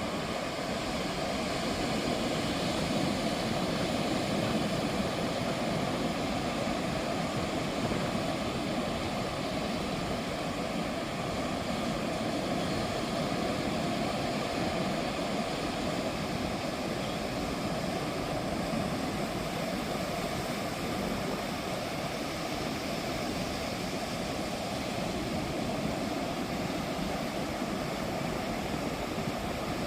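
Ocean surf washing onto a beach: a steady, even rush of wave noise with no distinct single breaks, a little louder a few seconds in.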